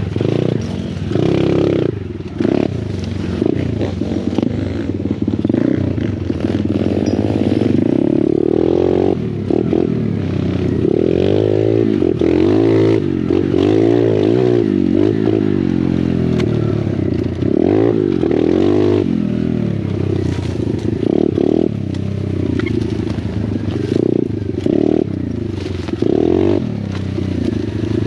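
Small pit bike engines revving up and down over and over as they are ridden, the pitch rising and falling with each throttle change.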